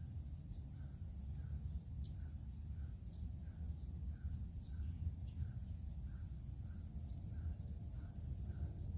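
Faint footsteps in snow at a steady walking pace, about three steps every two seconds, over a steady low rumble.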